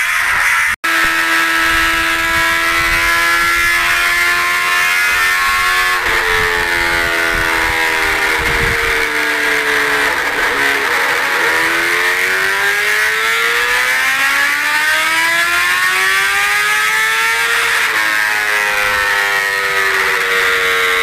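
Motorcycle engine running while riding, its pitch sinking slowly, dipping about halfway through, then climbing steadily as it speeds up before easing off again near the end.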